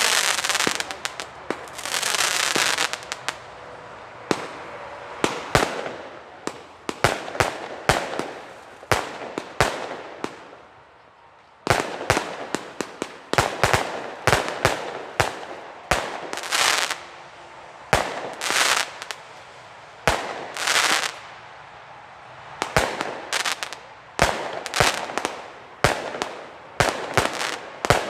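Weco Pyro Concept 905 compound fireworks battery firing: a rapid run of sharp launches and bangs mixed with swells of hissing and crackling, with a short lull about ten seconds in before the shots resume.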